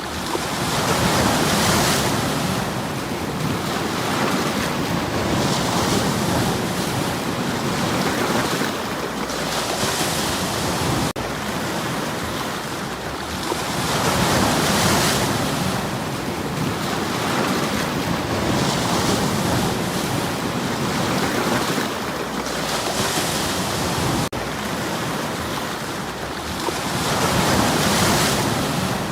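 Sea waves breaking and washing over shore stones: a continuous surf wash that swells and eases every few seconds.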